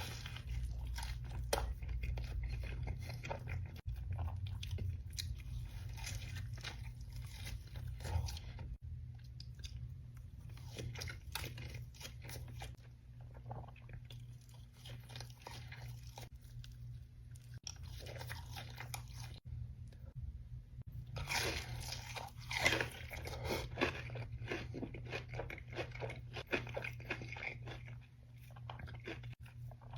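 Close-up eating sounds: crisp crunching and chewing of food in many irregular bites, densest about three-quarters of the way through, over a low steady hum.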